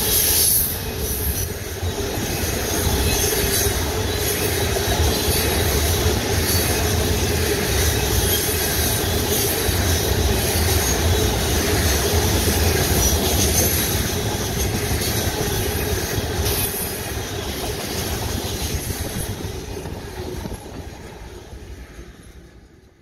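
Tank cars of a freight train rolling past, steel wheels running on the rail with a steady noise and a few brief clanks. The sound fades away over the last few seconds.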